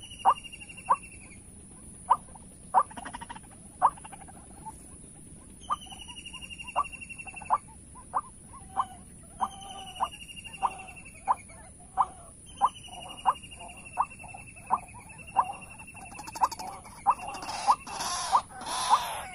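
White-breasted waterhen calling: a run of short, sharp notes, about one and a half a second, with a longer falling note every few seconds over a steady high insect drone. The calling gets busier and louder near the end.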